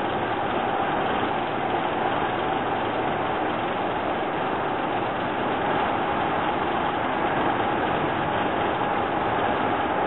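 Docklands Light Railway train running, heard from inside the carriage: a steady rumble of wheels on rail with a faint even whine. The noise grows a little louder near the end.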